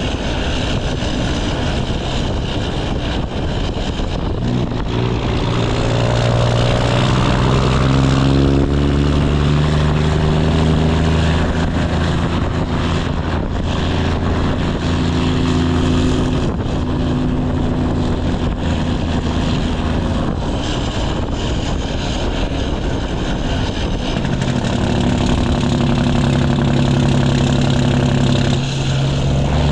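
Straight-piped Cummins ISX inline-six diesel pulling a heavy truck, its exhaust note climbing in pitch over a few seconds and then holding a steady, deep drone. The note drops briefly near the end.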